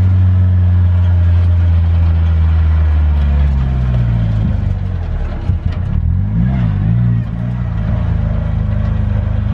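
A car engine running steadily, its pitch wavering up and down briefly about six to seven seconds in before it settles again.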